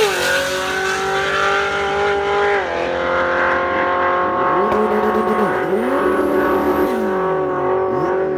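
Nitrous-fed 7.0-litre LS7 V8 of a C6 Corvette Z06 at full throttle on a drag-strip pass, shifting gears right at the start and again about three seconds in, then pulling high and steady as it draws away. The owner says the nitrous controller was set to shut off at 6,700 rpm, so the nitrous cuts out between shifts.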